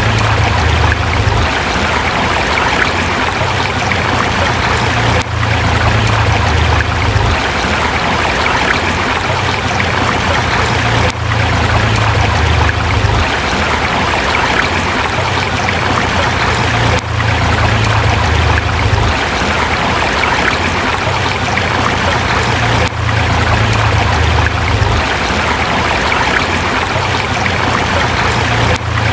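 A forest river running over rocks: a loud, steady rush of water with a low rumble underneath. The sound dips briefly about every six seconds.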